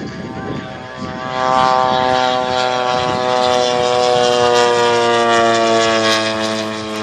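Giant-scale RC aerobatic plane's gasoline twin-cylinder two-stroke engine and propeller flying by. It swells about a second in, then its pitch slides slowly down and it eases off near the end.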